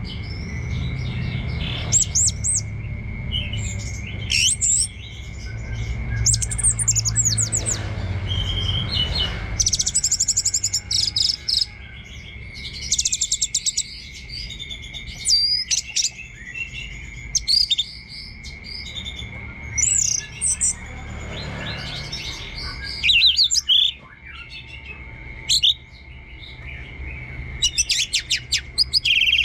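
Orange-headed thrush singing: a string of short, varied phrases of quick whistles and rapid trills, over a steady high-pitched tone and a low rumble.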